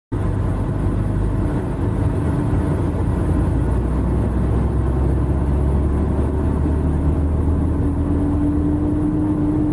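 Semi truck's diesel engine running steadily, heard from inside the cab as a continuous low hum.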